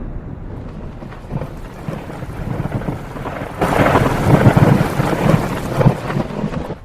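Thunderstorm: rain falling with low thunder rumbling. The sound turns much louder and fuller about halfway through.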